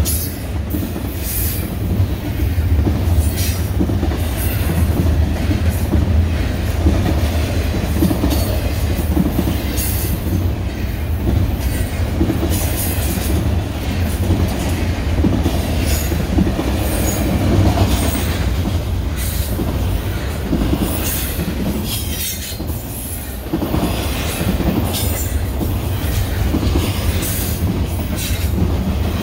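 BNSF intermodal freight train's cars rolling past close by: a steady loud rumble with short high wheel squeals scattered through it.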